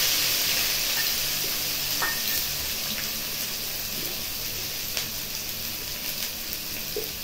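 Chilli paste and cumin paste frying in hot oil in an iron wok (kadai). The sizzle is loudest at first and dies down over the first few seconds to a steady sizzle, with a few faint pops.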